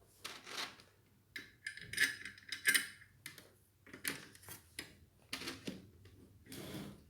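Irregular clicks, clinks and rustles of small parts being handled, a handful of short sharp sounds with the loudest pair about two seconds in.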